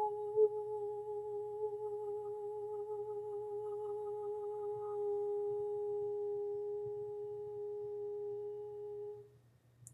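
A woman's voice toning one long, pure, hum-like note, held steady with a slight waver before it fades out about nine seconds in.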